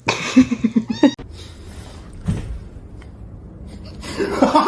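A cat calling, with a short rising meow about a second in, among scuffling noise. Another burst of noise comes near the end.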